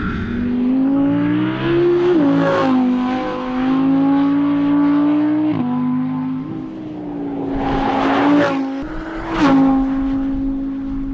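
Audi R8's V10 engine running hard on a track, its note held steady and then dropping abruptly in pitch three times, about two, five and a half and eight and a half seconds in. Brief rushing swells rise over it, the loudest about eight and nine and a half seconds in.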